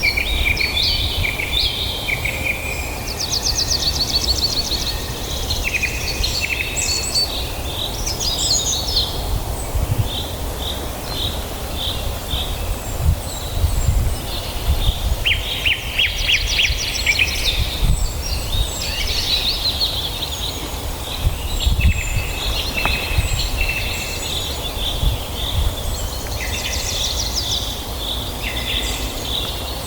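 Several songbirds chirping and singing in quick, overlapping trills and repeated notes, over a steady low rumble.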